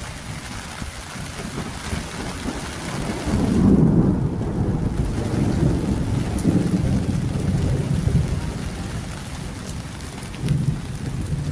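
Rain falling steadily, with a low rolling rumble that swells about three seconds in, lasts several seconds, and swells again briefly near the end.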